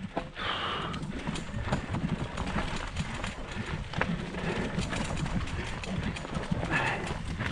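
Mountain bike rolling over rocky singletrack: a steady rumble of the tyres on rock, with many scattered clicks and knocks from the wheels striking loose stones and the bike rattling.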